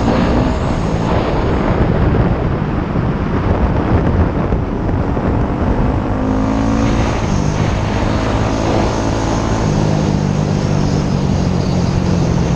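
Motorcycle engine running under way, its pitch rising and falling with the throttle, over a steady rush of wind and road noise.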